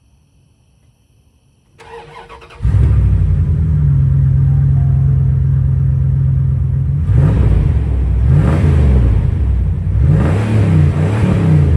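Dodge Ram 2500 pickup engine with its muffler deleted, cranked over by the starter and catching about two and a half seconds in. It idles steadily, then is revved up and down several times in the second half.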